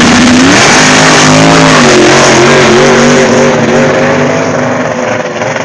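Drag car's engine going suddenly to full throttle at launch, very loud, its pitch wavering and stepping, then fading slowly as the car pulls away down the strip.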